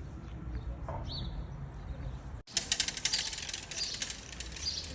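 Small birds chirping. About halfway through, the sound changes abruptly to a dense crackling chatter with a short chirp repeating a little more than once a second.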